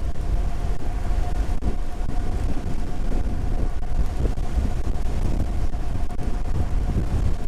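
Heavy wind buffeting the microphone of a moving electric motorbike, with a steady whine from its QS 205 hub motor underneath.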